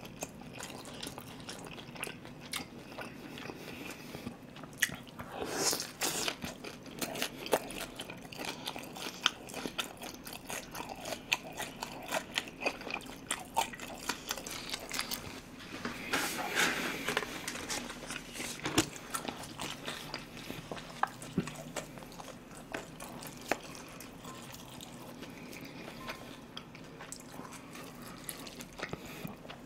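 Close-miked chewing and biting of crispy sweet-and-sour pork (guobaorou), with many small clicks and crunches and a few louder spells of chewing.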